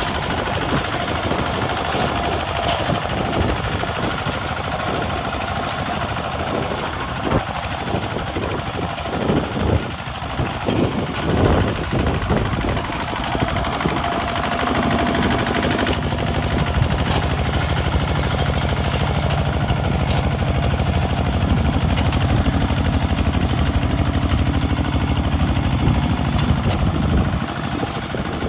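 Kubota RT single-cylinder diesel engine of a homemade hand tractor running steadily while plowing a field. About halfway through a deeper, heavier drone comes in and falls away shortly before the end.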